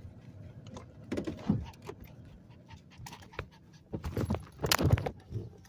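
Clatter and clicks of small things being handled inside a car, in irregular bursts, loudest about four to five seconds in, with a dog panting underneath.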